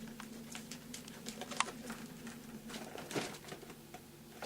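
Light, irregular taps and clicks over a steady low hum, with a slightly longer scraping sound about three seconds in.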